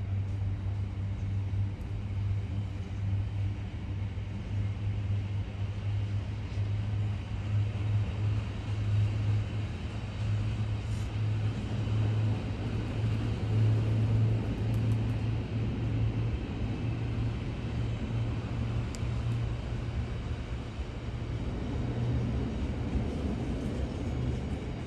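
Container wagons of a Freightliner freight train rolling past, a steady low rumble of wheels on the rails.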